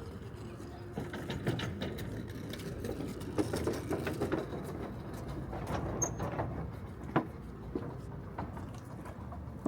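Ambient background noise: a steady low hum with many scattered clicks and knocks, busiest in the middle.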